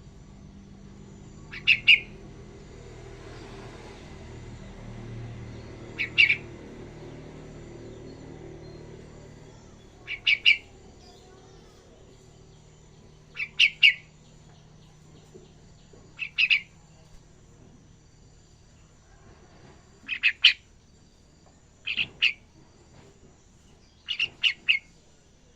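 Young yellow-vented bulbul (trucukan) calling in short bursts of two or three quick notes, about every three to four seconds: a juvenile still learning its song.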